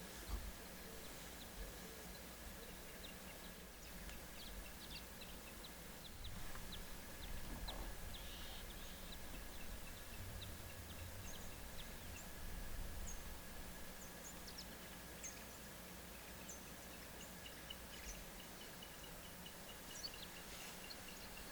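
Birds chirping, with scattered short high notes and quick runs of repeated calls near the end, over a faint steady high tone and a low rumble of wind.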